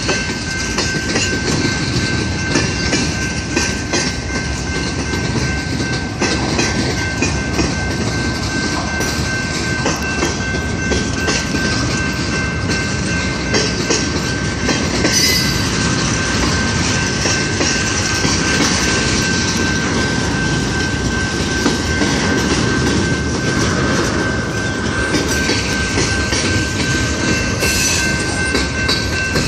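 Freight cars of a long mixed freight train rolling past, with a steady rumble and the clatter of wheels over rail joints, over a steady high-pitched squeal.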